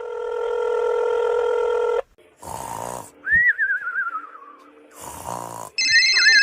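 A string of sound effects: a steady buzzing tone for about two seconds, then short hissing bursts and a wavering whistle that slides downward, and near the end a ringing electronic tone with another wavering whistle.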